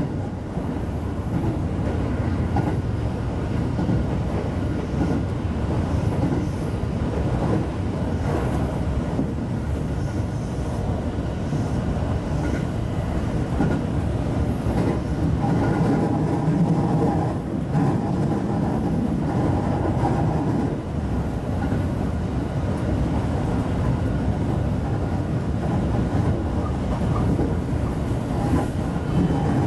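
Electric train running along the line, heard from inside the leading car: a steady rumble of wheels on rails.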